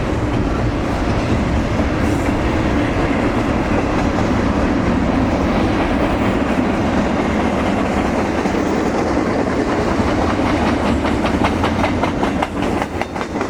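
Train passing close by: a steady rumble of rail cars, with wheels clacking over the rails. The clacks come quick and distinct in the last few seconds.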